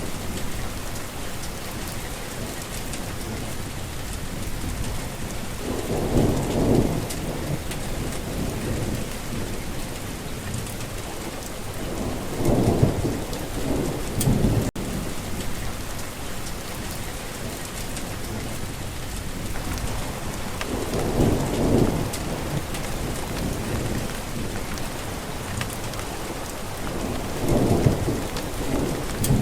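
Steady rain falling, with thunder rumbling low in the distance four times.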